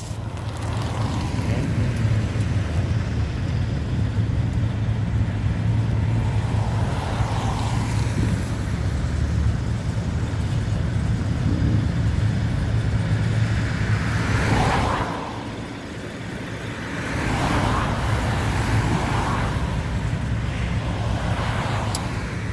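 Car engines running with a steady low rumble, and cars swelling up and fading several times in the second half as they drive past.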